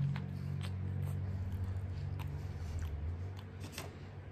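Close-up chewing of a mouthful of soft brisket sandwich, with small wet mouth clicks scattered throughout. A low steady hum sits under it and stops about three seconds in.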